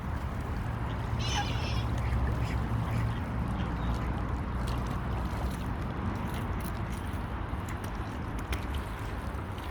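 Ducks and geese calling on a lake: one short call about a second in, then scattered brief calls, over a steady low rumble.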